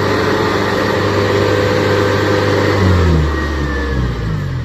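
Kubota DC70 Plus rice combine harvester's diesel engine running hard at high revs. About three seconds in, its pitch falls as the engine is throttled down, and it drops to a lower, quieter run at the very end.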